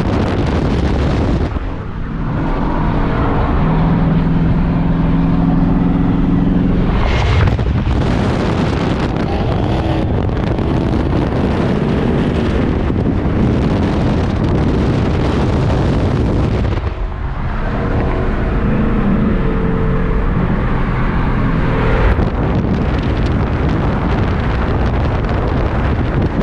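Muscle car engine running on the road under heavy wind rush. The engine note drops away briefly about two seconds in and again around seventeen seconds, then comes back each time.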